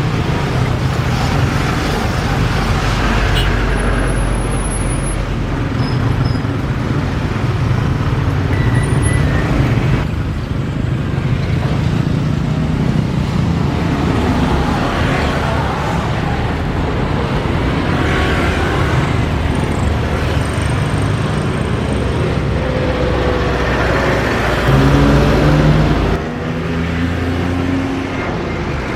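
Loud, steady engine rumble, with a few deeper pitched engine tones rising out of it near the end.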